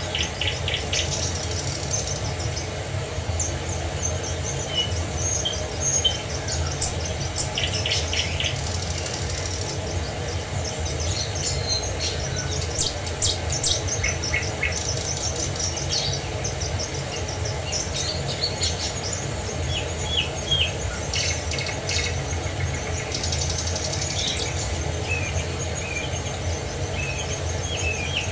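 Several small birds chirping and trilling, many short high calls overlapping, over a steady low rush of falling water.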